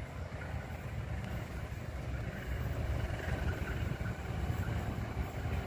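Diesel locomotive hauling a ballast train, approaching from a distance: a low rumble slowly growing louder.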